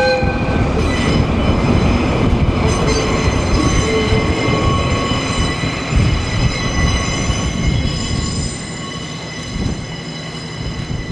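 Train wheels squealing against the rails as a locomotive-hauled train of KiHa 40-series railcars rolls slowly past, several steady high tones over a low rumble. The rumble fades about eight seconds in.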